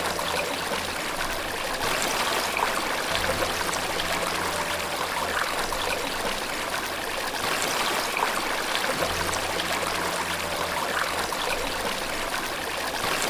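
Running water trickling and splashing steadily, as from a small stream or waterfall. A low tone comes in twice, about three seconds and nine seconds in.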